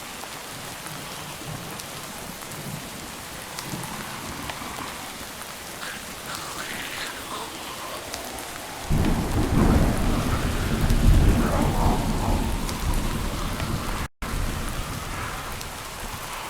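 Steady rain falling, with a roll of thunder that sets in suddenly about halfway through and rumbles low and loud for several seconds before fading back under the rain.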